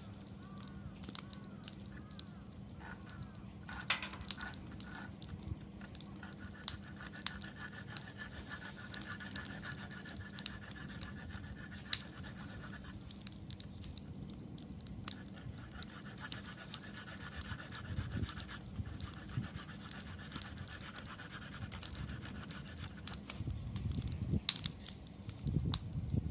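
Wood campfire crackling and popping with scattered sharp snaps, and a fluttering hiss that comes and goes through the middle. The low rumble of the flames swells near the end.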